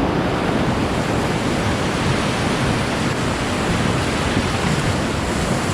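Whitewater rapid rushing steadily around a paddle raft, a dense, even water noise.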